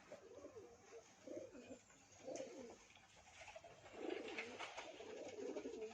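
Pigeons cooing, a run of low, soft coos that are faint at first and a little louder about four seconds in.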